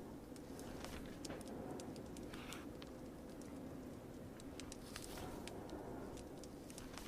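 Crackling fire, scattered sharp pops and snaps over a steady hiss of rain.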